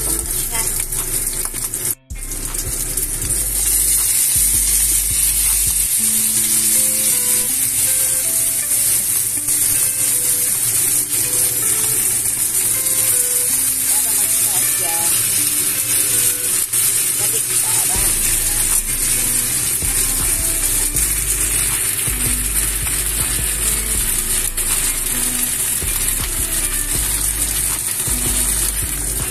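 Salmon steaks sizzling as they pan-fry in a stainless steel frying pan, a steady hiss throughout. Soft background music with a bass line plays underneath, and the sound cuts out for an instant about two seconds in.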